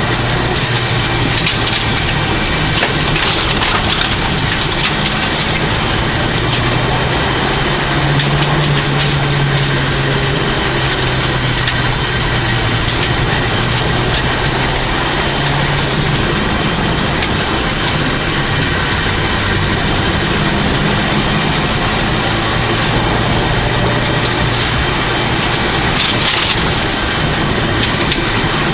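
1989 Toyota Celica GT-Four's turbocharged four-cylinder engine running at fairly steady revs, heard from inside the car, under a constant rushing road and tyre noise.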